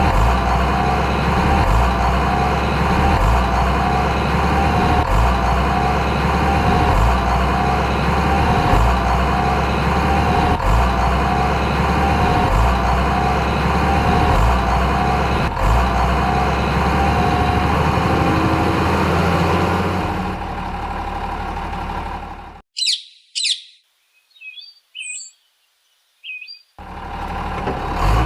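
Heavy vehicle engine sound running steadily, with a low throb about every second and a half. It fades out about twenty seconds in and gives way to a few seconds of near silence with a few short bird chirps, then the engine sound comes back just before the end.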